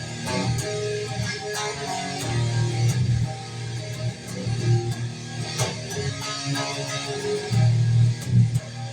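Guitar playing an instrumental passage of strummed chords and picked notes over a sustained low note, with no singing.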